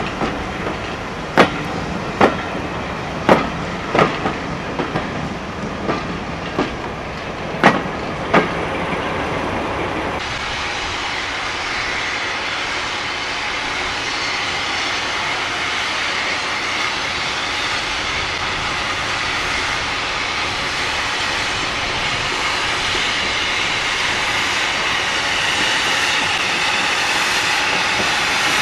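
Railway coaches rolling past slowly, their wheels clicking sharply over rail joints every second or so. About ten seconds in this gives way to a steady hiss of escaping steam from a small steam tank locomotive creeping toward the platform, growing slowly louder.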